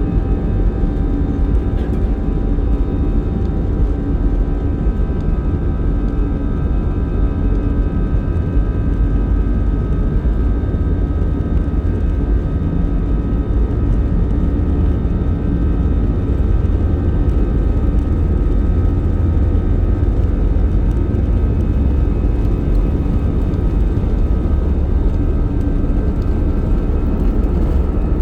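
Cabin noise aboard an Airbus A320-214 with its CFM56 engines running: a loud, steady low rumble with a few constant whining tones over it.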